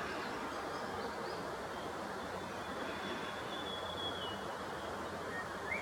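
Steady outdoor rushing noise with faint high bird calls over it: a thin held whistle in the middle and short rising chirps near the end.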